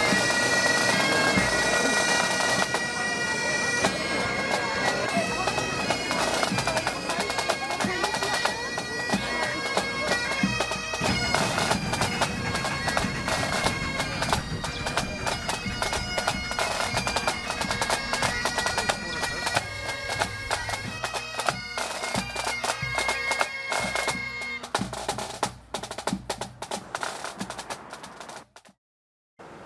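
Bagpipes playing a tune over held drone notes, with drums beating, as from a pipe band; the music thins out and then cuts off abruptly shortly before the end.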